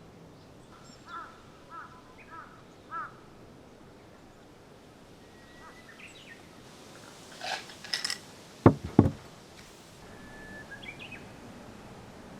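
A crow cawing four times in quick succession, then a brief clatter and two loud knocks about a second apart, with a small bird chirping near the end.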